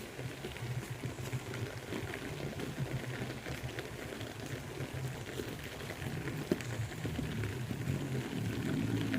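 Heavy rain falling steadily as a dense patter of drops, with a single sharp tap about six and a half seconds in.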